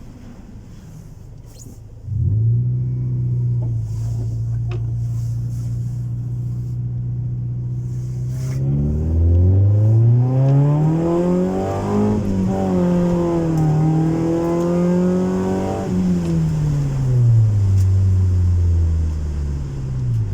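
Honda Civic 1.4iS's four-cylinder engine through a custom-made exhaust. It comes in suddenly about two seconds in and runs at a steady note. From about halfway the revs climb, hold high for a few seconds, then fall away, and the engine cuts out just before the end.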